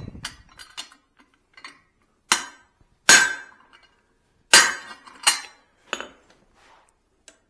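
Hammer blows on hot steel over an anvil while forging the peen of a cross peen hammer head: five hard, irregularly spaced strikes, each with a brief metallic ring, with a few lighter taps and clinks between them.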